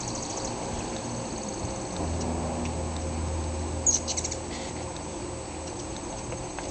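Hummingbirds giving fast series of high ticking chip calls, with a louder burst of squeaky chatter about four seconds in. A steady low hum runs underneath from about two seconds in to near the end.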